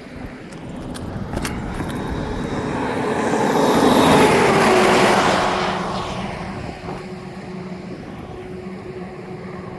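A motor vehicle passing by: its engine noise builds to a peak about four seconds in, then fades, leaving a steady low hum.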